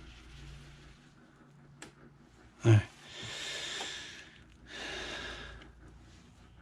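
A man's breathing close to the microphone: two long, noisy breaths in a row, just after a short spoken "all right". A small click comes shortly before.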